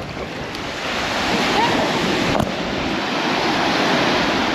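Sea waves washing onto the beach, swelling louder about a second in, with wind buffeting the microphone and a brief click near the middle.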